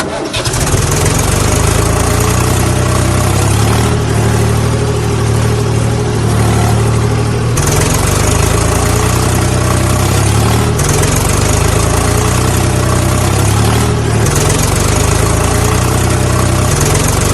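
An engine idling steadily, with the sound shifting abruptly every three to four seconds.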